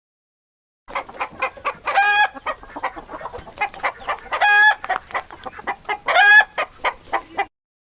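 Chickens clucking in a quick string of short clucks, broken by three longer, drawn-out calls. The sound starts abruptly about a second in and cuts off suddenly near the end.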